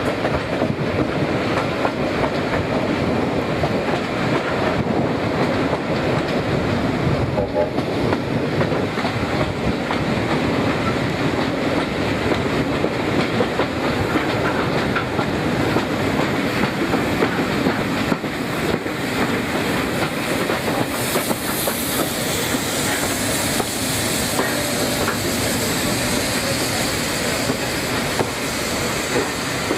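A train running along the line, its wheels giving a steady clickety-clack over the rail joints. A higher hiss joins in about two-thirds of the way through.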